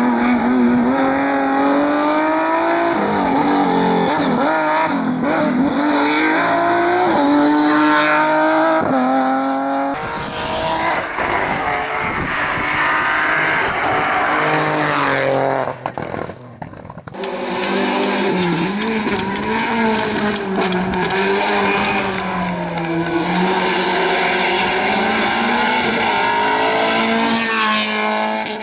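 Rally car engine worked hard on a stage, revs climbing and dropping with gear changes and lifts. Around halfway the sound briefly drops away, then engine noise returns.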